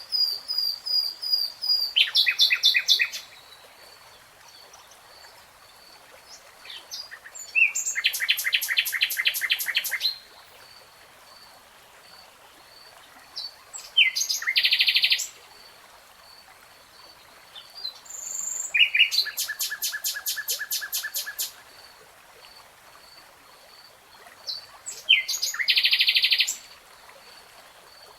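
A songbird singing in short, rapid trilled phrases of two to three seconds each, five times, with pauses of a few seconds between them. A faint, evenly repeated high note runs underneath.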